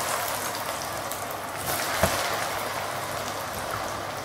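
Par-boiled elephant foot yam cubes deep-frying in hot oil in a cast-iron kadai: a steady, busy sizzle that eases slightly toward the end.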